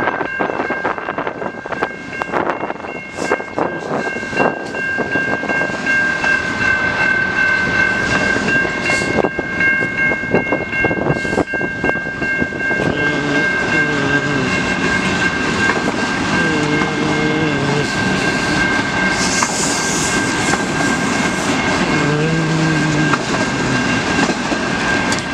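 Freight train cars rolling past a grade crossing, wheels clicking over the rail joints, with a steady high ringing tone held throughout.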